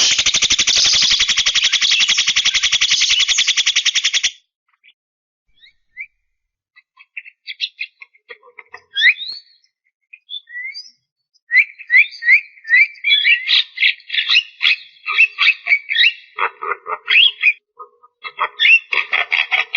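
Javan myna (jalak kebo) singing: a loud, fast buzzing rattle for about four seconds. After a short pause comes a run of chattering notes, short rising whistles and clicks that grows denser from about halfway in.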